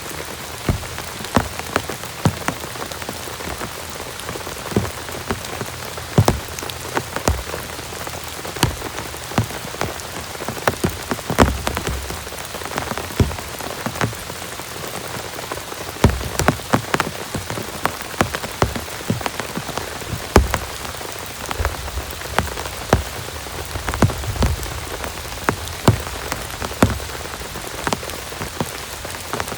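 Heavy rain falling steadily, with large drops hitting close by in sharp taps several times a second.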